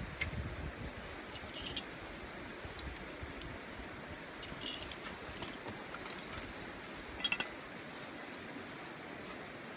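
A few light metallic clinks of camp cooking gear, in three short clusters spread through, over a steady outdoor background hiss.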